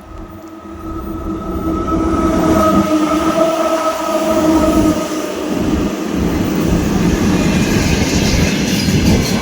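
A train running into and past the platform, building to a loud rumble within about two seconds. A whine sinks slowly in pitch through the middle, and rapid clacking of wheels over rail joints comes near the end.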